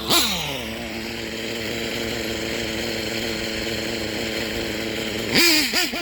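Small nitro two-stroke engine of an RC buggy (Hyper 3-port turbo engine) blips, then falls in pitch and runs steadily on 33% nitro fuel just after its high-speed needle has been leaned.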